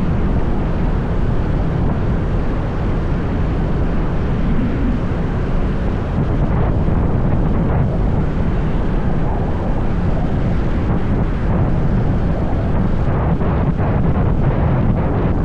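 Wind rushing over the microphone of a moving motorbike, with the bike's engine and road noise running steadily underneath.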